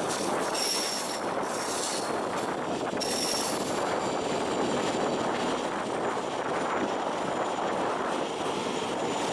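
MEMU electric local train running on the rails: a steady rumble, with a couple of brief high wheel squeals in the first few seconds.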